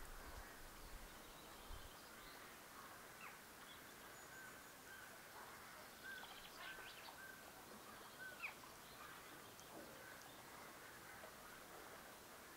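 Faint bird calls over a quiet background hiss: a run of short repeated notes through the middle, with a few brief higher chirps.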